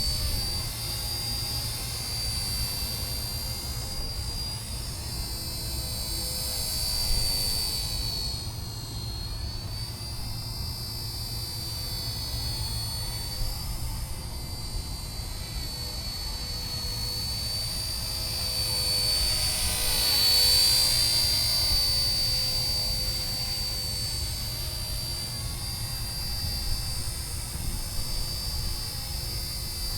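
RC ERA UH-1 Huey model helicopter in flight: a steady high-pitched motor and rotor whine that swells louder twice, about a quarter of the way in and again about two-thirds through, over a low rumble.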